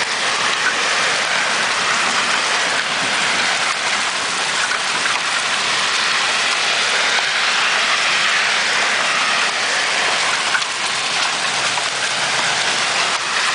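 Heavy hail coming down, large hailstones hitting the ground and surfaces all around: a dense, steady clatter with scattered sharper impacts and hardly any rain.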